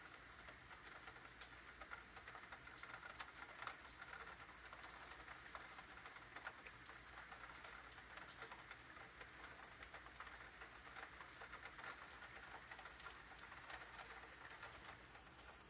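Faint rain pattering steadily, a dense crackle of tiny drop sounds, over a low steady hum.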